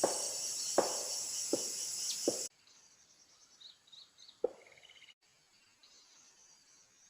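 A loud, high, steady insect drone with a few soft knocks under it, cutting off suddenly about two and a half seconds in. Faint bird chirps and one more knock follow.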